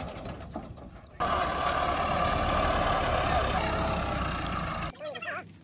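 Heavy farm-machinery engine running steadily. It jumps louder about a second in and drops away abruptly near the end.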